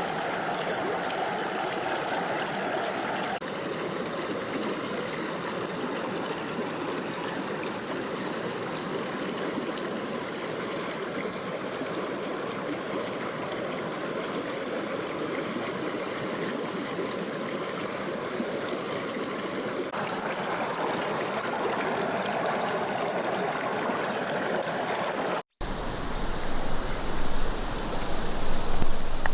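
Stream water rushing steadily, an even noise of flowing water. A little before the end it cuts abruptly to a louder, more uneven rush of water.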